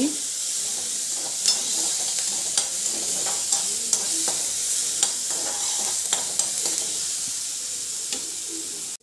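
Chopped onion, garlic and green chillies sizzling steadily in hot oil in a kadai while a slotted spoon stirs them, with small scrapes and taps of the spoon on the pan now and then.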